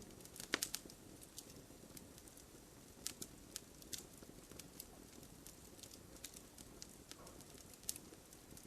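Wood campfire burning with a soft steady hiss and scattered sharp crackles and pops, a quick cluster of them about half a second in and another near the end.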